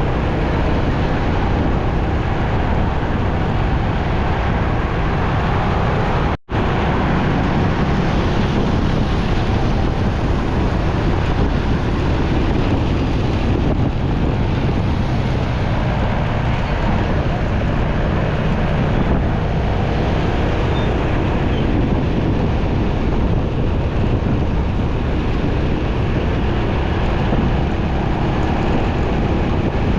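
Wind buffeting the microphone on a moving motorcycle, over the bike's engine and the surrounding road traffic, a steady loud rush. The sound cuts out for an instant about six seconds in.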